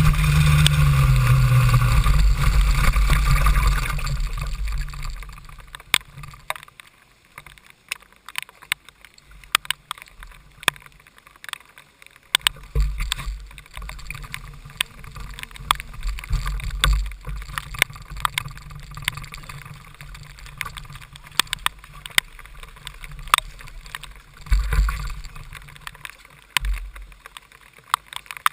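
KZ2 shifter kart's 125cc two-stroke engine running and dropping in pitch, then dying away about four seconds in. After that come irregular sharp taps of heavy rain striking the onboard camera, with occasional low rumbles.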